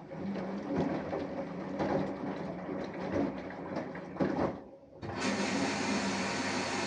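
Samsung Eco Bubble washing machine with an inverter motor running a wash: a steady motor hum with irregular swishing and knocks from the turning drum. This stops about four and a half seconds in, and then an even, steady whooshing noise starts.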